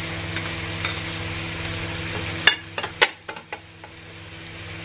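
Baby spinach sizzling in a hot non-stick wok as it is pushed around with metal tongs. A few sharp clicks of the tongs against the pan come about two and a half to three and a half seconds in, the sizzle dips, then builds again, over a steady low hum.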